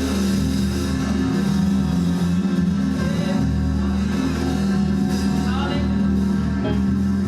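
Live gospel band playing: bass, guitar and drums under sustained chords, with a short sliding lead line a little past the middle.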